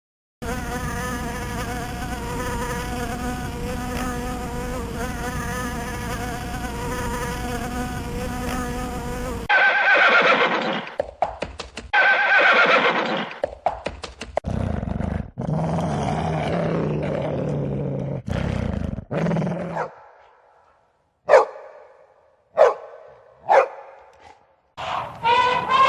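Recorded animal sounds played one after another: a steady buzz for about nine seconds, then a string of separate animal calls, with a few short, sharp calls near the end.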